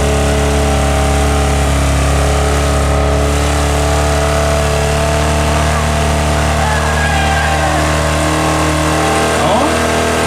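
Car engine held at steady revs in a burnout, its pitch constant and unwavering.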